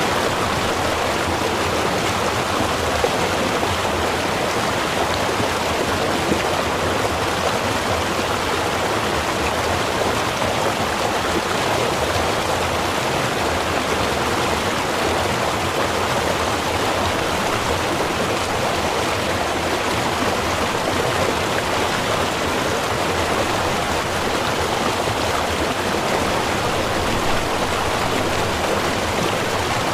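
Water of a small river or stream flowing steadily, an even, unbroken rush of running water.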